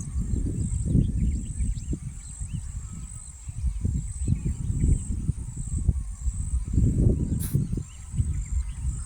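Evening outdoor ambience: a steady high trilling of insects and scattered faint chirps of small birds, under a loud, uneven low rumble on the microphone. A single brief click about seven and a half seconds in.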